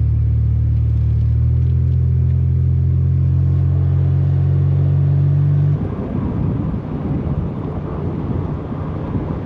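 Tow truck's engine running hard up a steep climb, a loud steady drone that steps up a little in pitch about a second and a half in. A bit past halfway the drone drops off suddenly to a quieter, rougher rumble.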